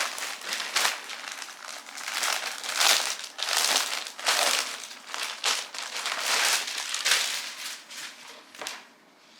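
Plastic packaging crinkling and rustling in irregular bursts as a new garment is handled and pulled out of its bag.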